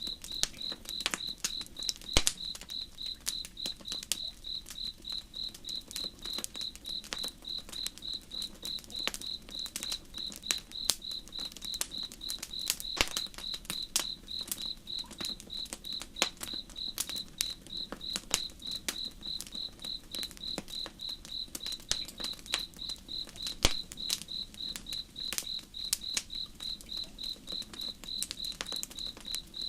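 A cricket chirping steadily at about two chirps a second, over the irregular crackles and sharp pops of a campfire, with the low steady rush of a slow river underneath.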